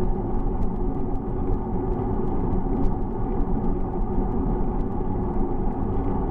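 Steady rumble of wind buffeting the microphone, with tyre and road noise from a moving bicycle. Faint scattered ticks sound through it.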